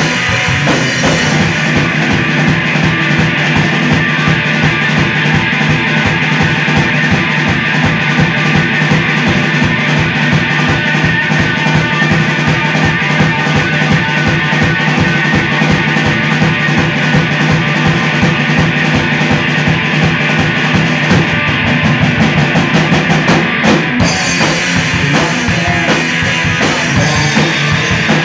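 Live rock band playing loud: drum kit with fast, even hits over guitar.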